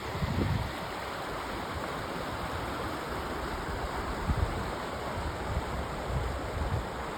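Mountain river's water running steadily, an even rushing hiss, with brief low wind buffets on the microphone near the start and about four seconds in.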